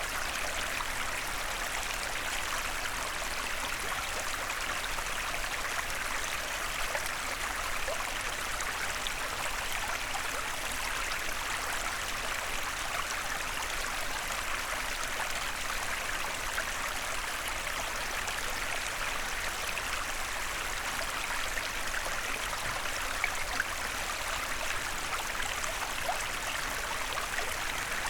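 A small forest stream running steadily over stones, a continuous babbling and trickling of water.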